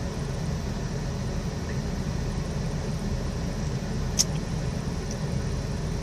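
Steady low mechanical hum with a single sharp click about four seconds in.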